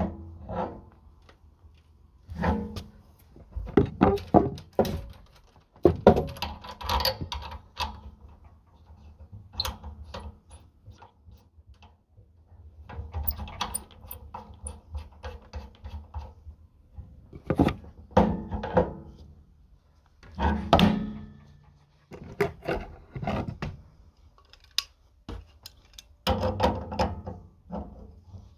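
Irregular thunks, knocks and clatter of hand tools and metal fittings being handled and set down during plumbing work, some with a short metallic ring.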